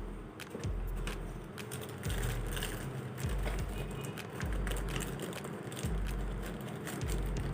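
Unboxing of robot vacuum accessories: scattered clicks and light rustling from packaging being handled, over a low rumble that comes and goes about once a second.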